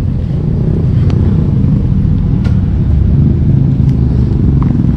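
Car running with a steady, loud low rumble.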